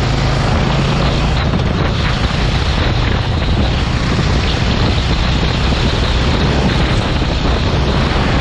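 Racing kart engine running steadily under a dense, even rushing noise.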